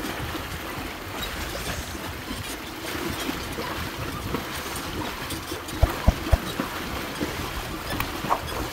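Water splashing and sloshing as a carabao-drawn cart wades across a shallow stream, with a few dull knocks around six seconds in.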